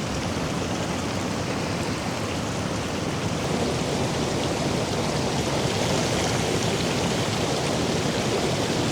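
Steady rush of falling water, from a waterfall and heavy rain, growing a little louder about three and a half seconds in.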